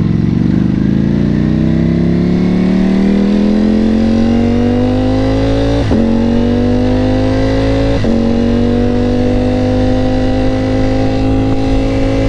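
Ducati Panigale V4 sportbike engine accelerating through the gears. Its note climbs steadily, drops sharply at two upshifts about six and eight seconds in, then settles into a steady cruise.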